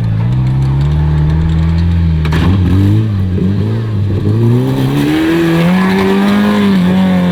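Off-road 4x4 vehicle's engine revving hard under load, its pitch dipping and rising unevenly, then climbing about four seconds in and holding high.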